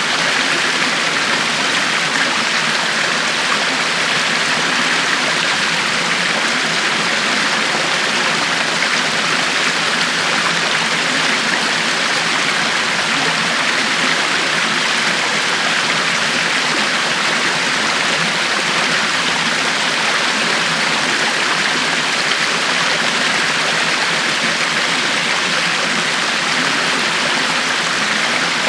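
River water flowing over rocks: a steady, even rushing and splashing with no change.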